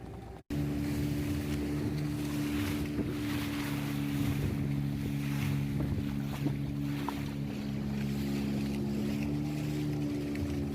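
Motorboat engine running at a steady speed, with wind and water noise on the microphone. The sound cuts in abruptly about half a second in.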